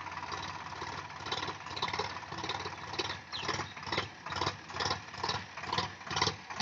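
Tractor diesel engine running steadily, with a regular knocking clatter at about two beats a second that becomes stronger partway through.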